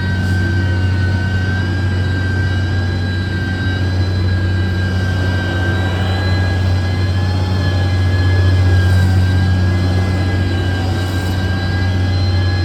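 Diesel engine of a heavy earthmoving machine such as a motor grader or bulldozer, running steadily under load. It gives a low drone with a high, steady whine over it.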